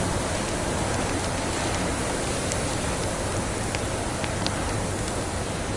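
Wood fire crackling, with a few sparse, faint pops over a steady hiss.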